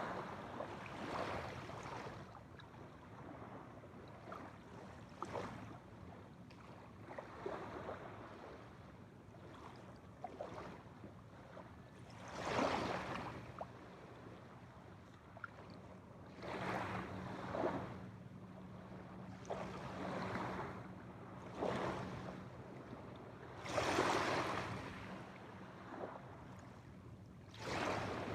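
Small waves lapping and washing on a shore, in short, irregular surges every few seconds over a steady water wash.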